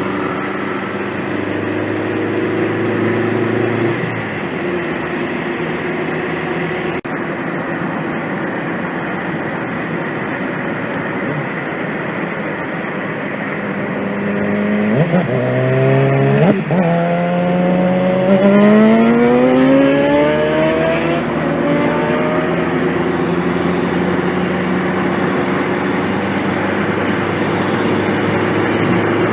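Suzuki GSX-R600's inline-four engine idling steadily through an Akrapovic full exhaust. About halfway through it is blipped twice sharply, then revved up in a smooth rising sweep before dropping back to idle.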